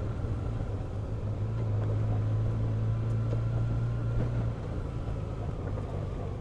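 Motorcycle engine running steadily under way, with a low hum over road noise. The engine note eases back about four and a half seconds in.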